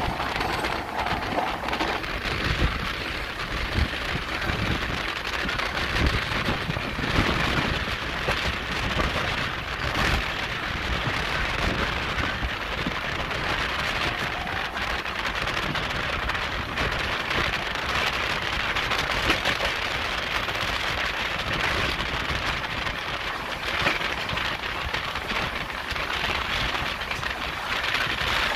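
Steady rushing noise of the Poorva Express passenger train in motion, heard from outside the coach: wind over the microphone mixed with the wheels running on the rails.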